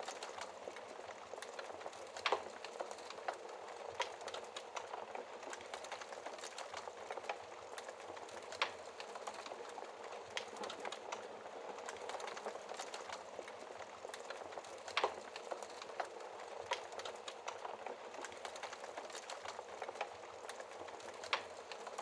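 Wood fire crackling: a steady hiss of burning with many small snaps and a handful of louder pops scattered through.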